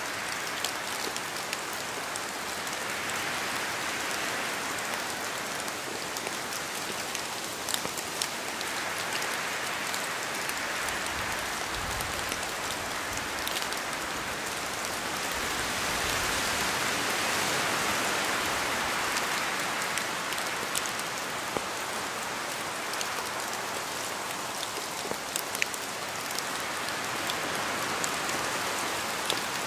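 Steady rain falling and pattering on a surface, with many small sharp drop ticks; it swells and eases gently in slow waves, with a brief low rumble about twelve seconds in.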